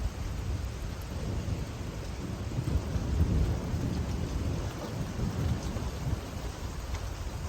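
Steady rain falling, with a low rumble of thunder underneath that swells to its loudest about three seconds in.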